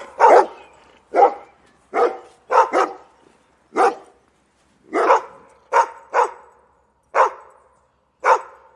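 Dog barking: about a dozen short single barks, spaced irregularly about a second apart, some in quick pairs.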